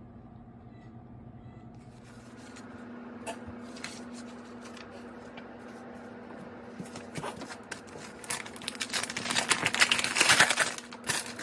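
Crinkling and rustling of something being handled, starting quietly after a steady low hum and turning into irregular clicks that grow denser and louder over the last few seconds.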